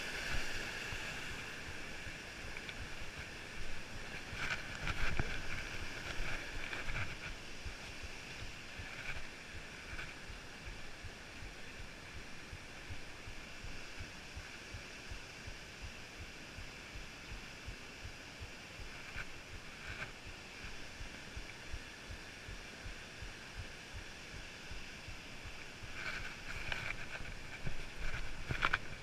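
Steady rushing outdoor noise throughout, with scuffs and knocks of footsteps and hands on rock, a few about four to seven seconds in and more near the end.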